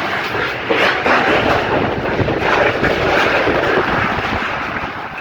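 Strong wind blowing in loud, surging gusts, buffeting the microphone.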